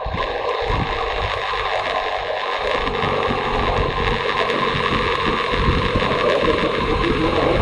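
Motorcycle on the move: engine running under heavy wind rushing over the microphone.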